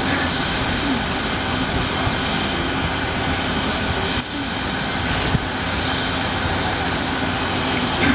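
C57 steam locomotive standing in steam, giving off a steady hiss with a faint high whine running through it; the hiss dips briefly about four seconds in.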